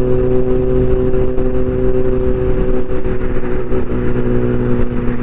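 Yamaha FZ1's inline-four engine running at steady revs on the move, with wind rumbling on the camera's microphone.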